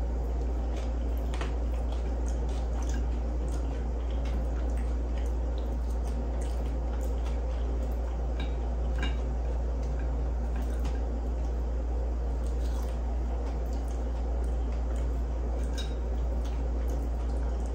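Close-miked eating sounds: wet chewing and mouth smacks on soft breakfast food, with scattered clicks of a fork against a plate. Under them runs a steady low hum.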